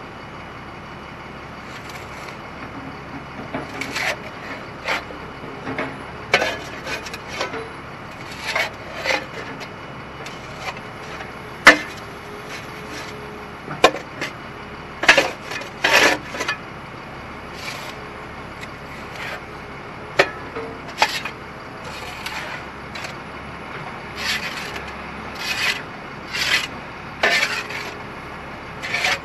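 Wooden poles and timbers of an old potato cellar cracking, splintering and scraping as an excavator tears them apart, in irregular bursts. A single sharp crack about twelve seconds in is the loudest.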